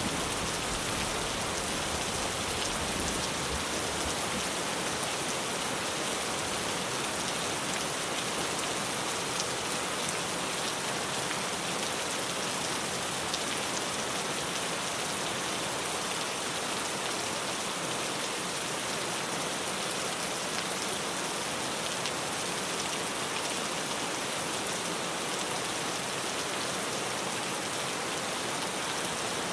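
Steady heavy rain drumming on a tin roof, an even hiss of countless drops with occasional sharper drop ticks.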